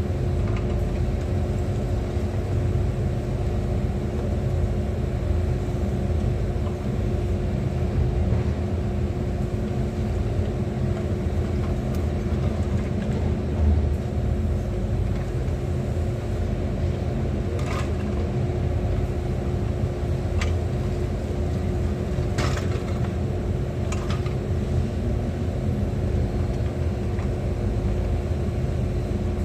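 Excavator engine running steadily: a low drone with a constant hum, with a few short clicks and squeaks in the second half.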